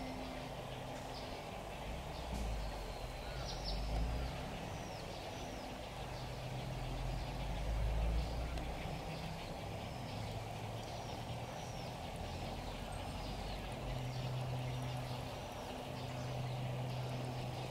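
Small birds chirping again and again in short, high, down-sweeping notes, over a steady outdoor background with a low hum that comes and goes.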